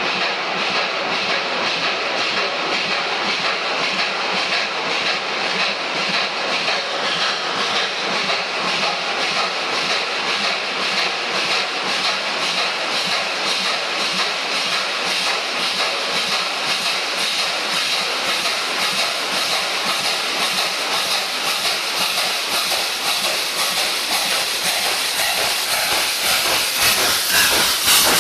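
Steam-hauled train running steadily, a continuous rush and clatter with fast, evenly spaced beats. It grows louder near the end as steam hiss comes in.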